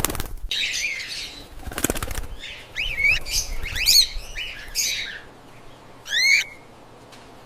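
Cockatiels flapping their wings, a rustling flurry at the start and again about two seconds in, among a run of short chirping calls that sweep up and down in pitch.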